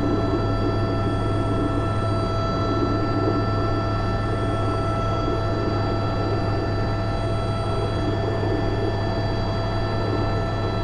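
Airbus H125 single-engine helicopter hovering with a slung load, heard from the cockpit. The main rotor drones steadily under the even whine of the turboshaft engine and gearbox.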